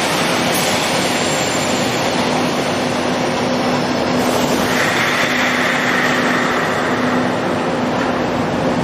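Keikyu old 1000-series electric train running, a steady rail rumble with a constant low hum.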